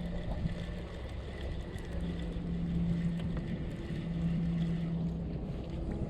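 Wind rumbling on the microphone, with a low steady hum that comes and goes three times.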